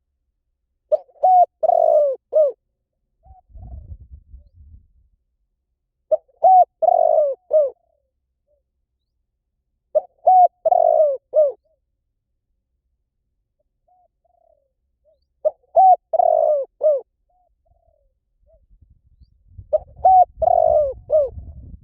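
Spotted dove cooing: five short phrases of a few notes each, repeated about every four to five seconds. A faint low rumble sits under the calls about four seconds in and again near the end.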